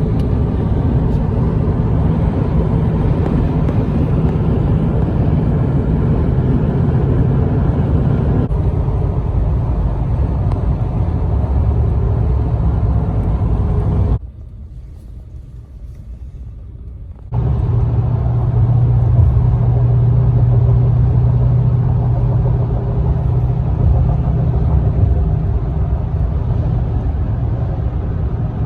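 Steady low rumble of a large vehicle's engine running, broken about halfway through by a much quieter stretch of about three seconds before the rumble resumes.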